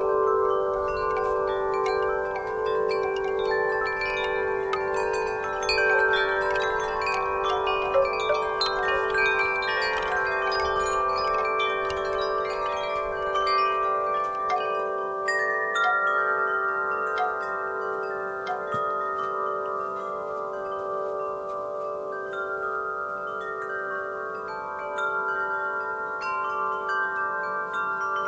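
Wind chimes ringing in the breeze: many overlapping metallic tones struck at random and left to ring, with a slow beating shimmer. The strikes come thick in the first half and thin out after about fifteen seconds.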